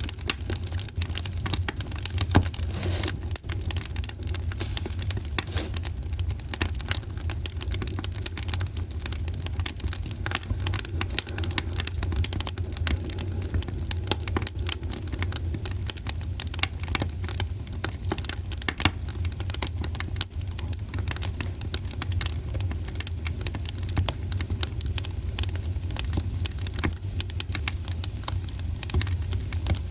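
Fire crackling in a fireplace: dense, irregular pops and snaps over a steady low rumble.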